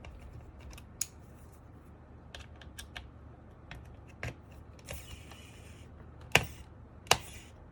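Screws being unscrewed from a mechanical keyboard's case: scattered light clicks and ticks from the screwdriver and screws, a short scraping rasp about five seconds in, and two sharp clicks near the end. A steady low hum runs underneath.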